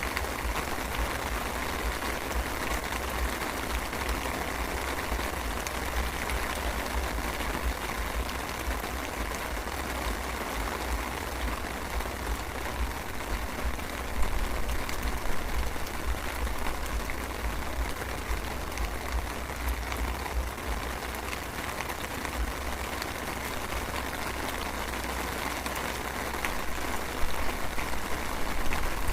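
Light drizzle falling, a steady even hiss, with a low rumble underneath and a couple of louder swells, about halfway through and near the end.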